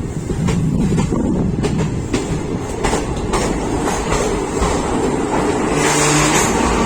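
Train running along the track: a steady rumble with irregular clicks of the wheels over the rails. Music comes in near the end.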